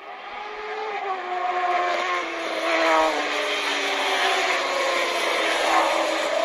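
Several racing motorcycle engines running together, loud and steady, with their pitch slowly falling.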